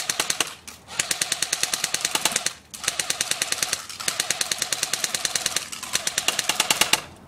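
Thompson P40 airsoft gun firing on full auto in several long bursts with short breaks, about ten rapid shots a second, stopping just before the end.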